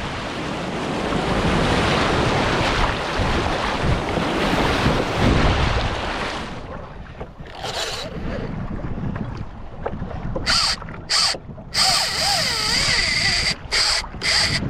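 Wind buffeting the microphone over rushing sea water on a kayak in the surf, dying down about six seconds in. From about ten seconds in, a run of short high-pitched bursts with a wavering tone cut in and out.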